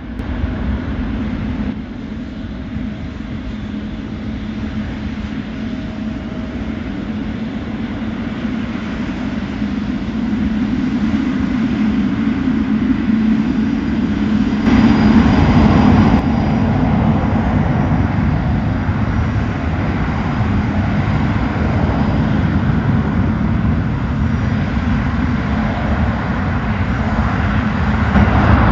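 Jet airliner engine noise building up as the aircraft passes, loudest about halfway through and staying strong after.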